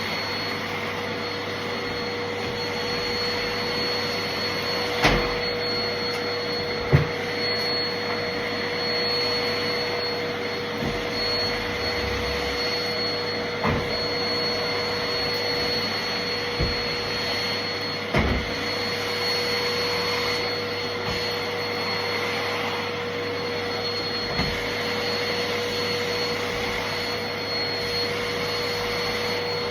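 Vacuum cleaner running steadily with a constant whine. A few short knocks come through over it, the sharpest about five and seven seconds in.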